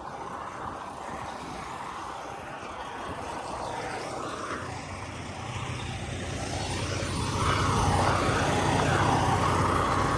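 Semi truck's diesel engine running, growing louder from about halfway through as the truck manoeuvres.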